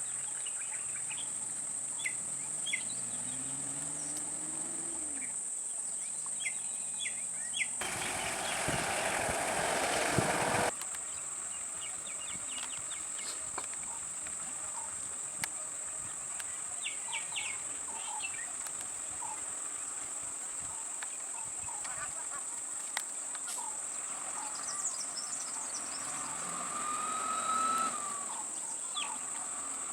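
Steady high-pitched drone of insects, with scattered short bird calls. A loud burst of rushing noise about eight seconds in lasts nearly three seconds and cuts off suddenly.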